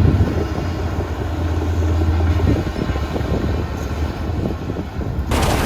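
Heavy earthmoving machinery's diesel engine running with a steady low rumble. About five seconds in, the sound cuts abruptly to a louder, broader noise.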